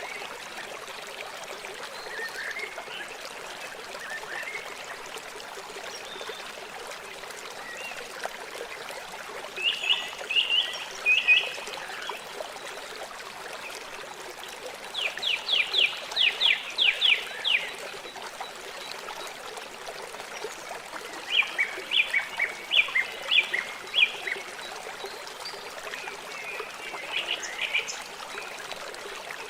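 River water flowing with a steady rushing hiss. Over it, an animal gives four runs of rapid, evenly spaced calls, a few per second, each run lasting one to three seconds.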